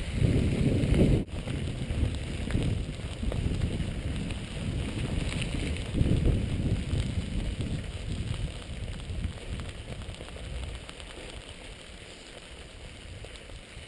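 Wind buffeting the microphone and road noise while riding a bicycle: a rumble that rises and falls and eases off over the last few seconds.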